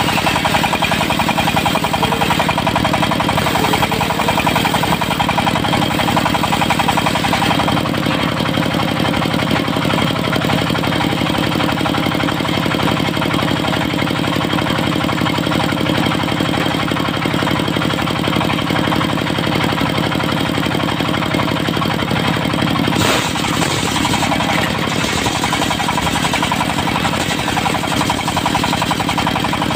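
Diesel engine of a mobile circular sawmill running steadily with a fast, even knocking beat. There is one sharp knock about three-quarters of the way through.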